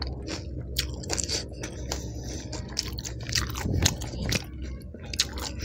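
Chewing a mouthful of pani puri and raw green chili, with wet crunches and clicks and a louder run of crunching a little past the middle.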